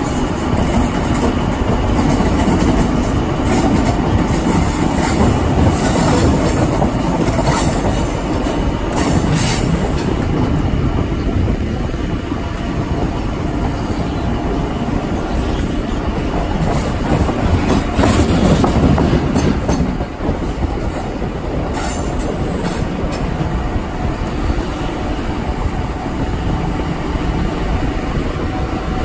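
Passenger train running over pointwork, heard from the side of the moving train: steady rumble and clatter of wheels on rails, with a few sharper knocks over the points.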